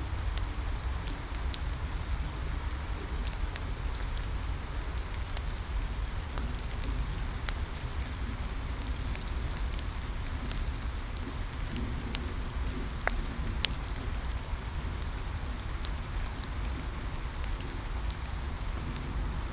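Steady rain falling, mixed with a wood fire crackling: scattered sharp pops throughout, two louder ones a little past the middle.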